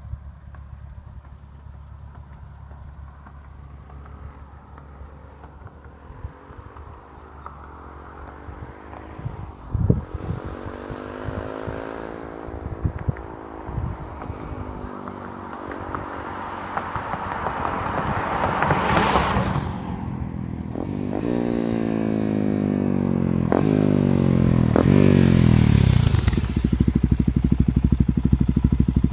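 Suzuki DR-Z400SM single-cylinder four-stroke engine through a Yoshimura RS2 carbon exhaust, heard faintly at first, then revving up through the gears as it comes closer, the pitch climbing and dropping with each shift. It then settles into a loud, steady idle. Crickets chirp throughout as a constant high tone.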